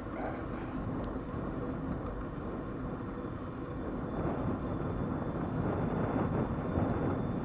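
Wind buffeting the microphone over the rolling noise of a moving e-bike, growing slightly louder in the second half.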